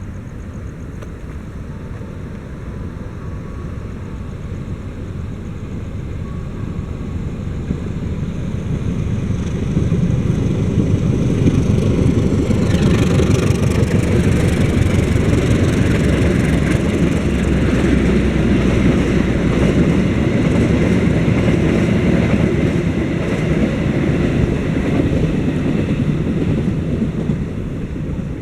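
A diesel train running past on the rails: its low rumble builds over the first ten seconds, gains a rattle and hiss of wheels and coaches as it comes alongside, stays loud, and eases slightly near the end.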